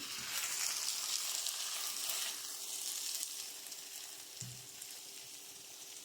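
Spaghetti and minced chicken sizzling in an oiled pan just after the burner is switched off, the sizzle dying down over the last few seconds over a faint steady hum.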